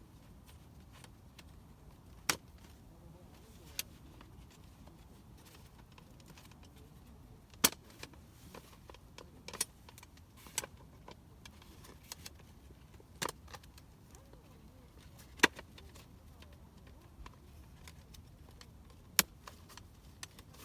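Irregular sharp clicks and knocks, about eight of them a second or more apart, over a quiet background.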